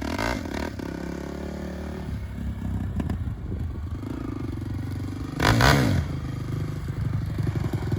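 Off-road ATV engine running under way on a dirt trail, with a steady pulsing note, and one brief louder surge about five and a half seconds in.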